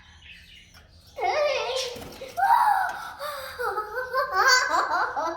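A young woman laughing and giggling in bursts, starting about a second in.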